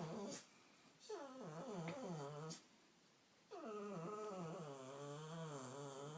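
A dog making long, drawn-out whining groans, the vocal 'talking' of a dog. There are two calls: the first falls in pitch over about a second and a half, the second wavers for about two and a half seconds.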